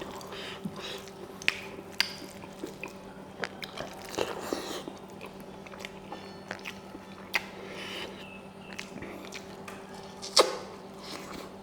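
Close-miked eating sounds: chewing and biting smoked pork curry with rice, with scattered wet clicks and smacks of the mouth, one sharper click near the end. A faint steady hum runs underneath.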